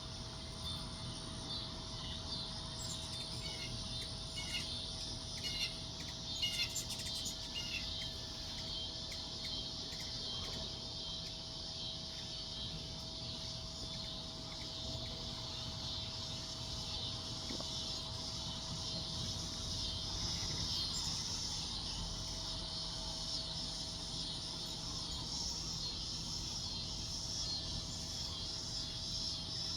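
Dense, steady high chirring of insects with birds chirping outdoors, and a run of short bird chirps about three to eight seconds in.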